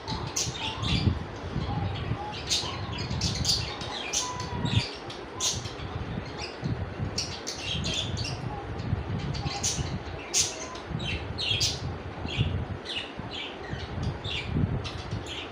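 Budgerigars chirping and chattering in many quick, sharp chirps, over a low rumble with soft thumps.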